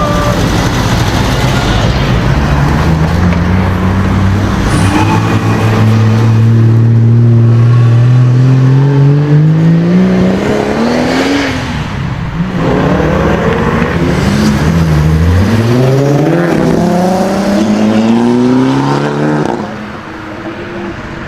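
High-performance sports car engine accelerating hard, its pitch climbing in one long pull that falls away about halfway through. A second run-up follows, rising in quick steps with gear changes near the end.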